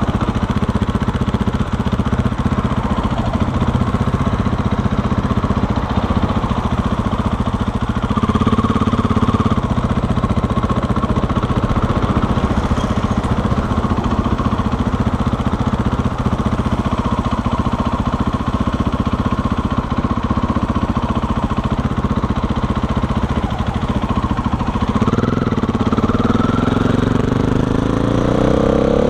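KTM 500 EXC's single-cylinder four-stroke engine running steadily under the rider on the move. Near the end its pitch rises as the bike accelerates.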